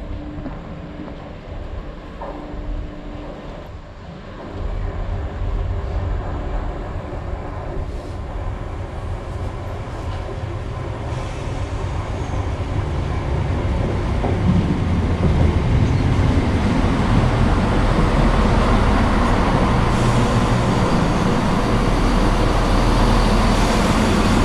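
A ScotRail diesel multiple unit approaching and running in alongside the platform. Its rumble of engine and wheels on rail grows steadily louder over the first half and stays loud as the carriages come level.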